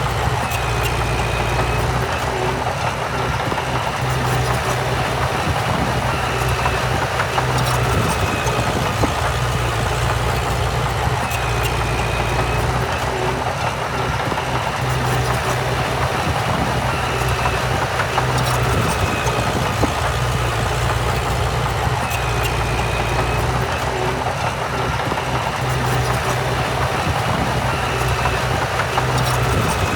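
Heavy diesel earthmoving machinery running steadily at an even pace, with a faint short high chirp recurring every few seconds.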